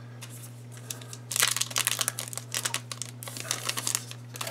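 A trading card pack's wrapper being torn open and crinkled in the hands, a dense crackling that starts about a second in and runs for a few seconds. A steady low electrical hum lies under it.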